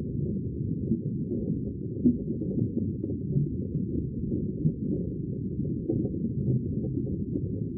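Steady, muffled low rumble of sea water, with no high hiss.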